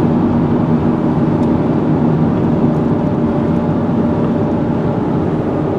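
Steady road and engine drone of a car driving, heard from inside the cabin, with a low hum that holds even throughout.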